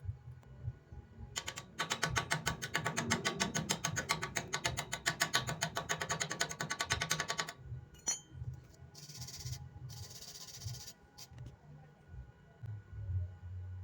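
Stick-welding arc on iron plate, a fast run of crackling clicks that starts about a second and a half in and stops after about six seconds, followed by a brief hiss.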